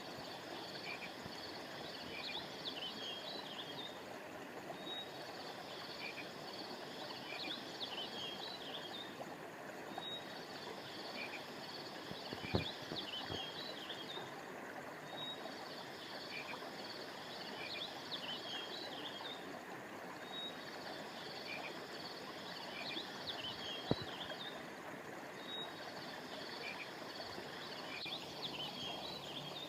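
River water running steadily over a high, chirping chorus of small animals. The chorus comes in spells of about four seconds, with a short gap roughly every five seconds. Two sharp clicks stand out, one about halfway through and one later on.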